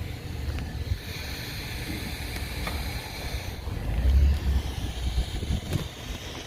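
Wind buffeting the microphone as a low, uneven rumble, louder for a moment about four seconds in, over a steady hiss.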